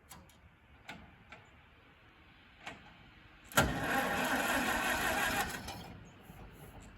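A few light clicks, then the 1956 Farmall Super M-TA's starter cranking its engine for about two seconds, starting a little past halfway through, without it catching, after the tractor has sat unstarted for a while.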